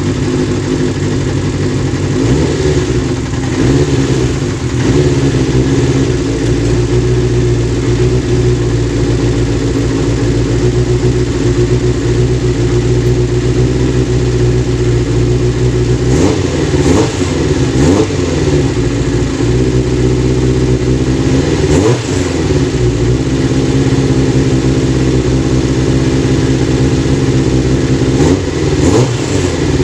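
Kawasaki GPz 400 four-cylinder motorcycle engine idling steadily, with the throttle blipped several times: the revs rise and fall about halfway through, again a few seconds later, and near the end.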